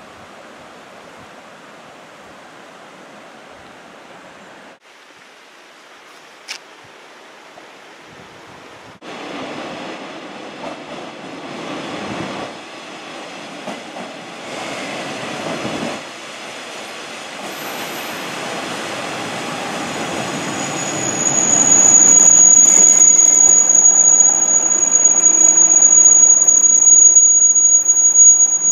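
Sanriku Railway diesel railcar approaching out of a tunnel and pulling into the station. Its running rumble builds from quiet and grows much louder over the second half. A high, steady squeal joins it for the last several seconds as the car slows alongside.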